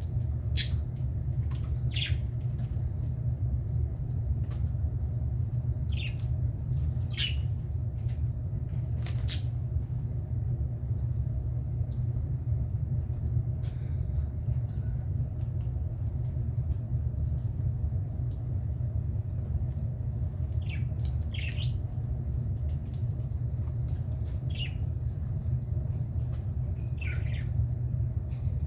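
Budgerigars giving short, sharp squawks and chirps: a handful near the start, a quiet stretch, then more near the end. A steady low hum runs underneath throughout.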